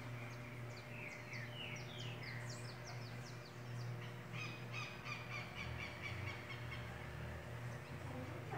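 Songbirds singing in garden trees: a string of quick, falling chirps, then about halfway through a fast run of repeated notes, at roughly four or five a second. A steady low hum lies underneath.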